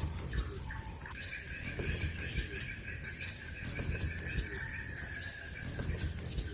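Crimson sunbird giving rapid, very high-pitched chirps, several a second, over a steady higher tone that starts about a second in and stops near the end.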